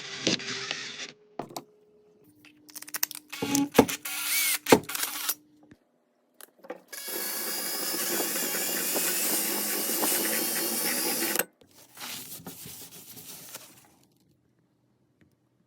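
Workshop tool sounds: a few short scraping stretches with sharp knocks and clicks, then a power tool running steadily for about four seconds and stopping abruptly, followed by a quieter stretch of rubbing.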